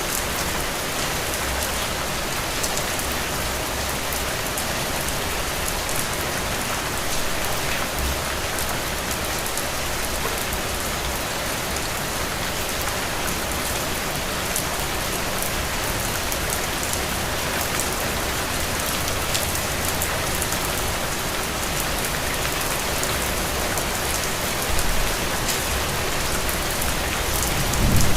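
Heavy rain falling steadily: a dense, even hiss with close-packed drop patter. A brief low rumble swells near the end.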